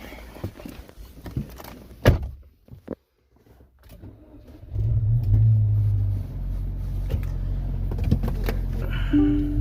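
A few knocks and clicks, then about five seconds in the MG5's petrol engine starts, surges briefly and settles into an idle. The engine is shaking from a misfire on one cylinder. A short beep like a dashboard chime sounds near the end.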